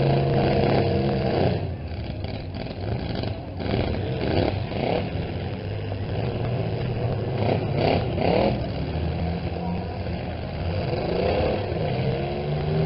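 Several small pickup trucks' engines running and revving in a demolition derby heat, the pitch rising and falling, with a few short knocks of contact between the trucks.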